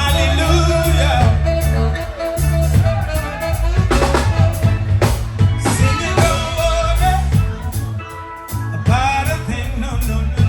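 Live reggae band playing, with a strong bass line, drum kit and a singer's voice.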